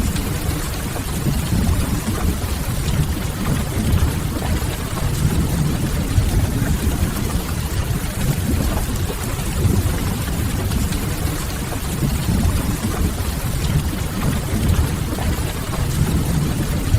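Steady rain with a constant low rumble underneath, mixed with the light crackle of a wood fire.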